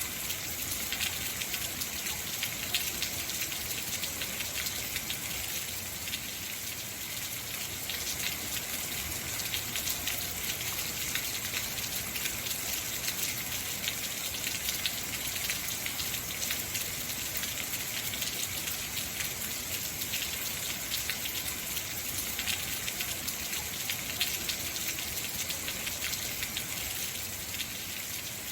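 Heavy rain falling steadily, a dense hiss of drops pattering on hard surfaces.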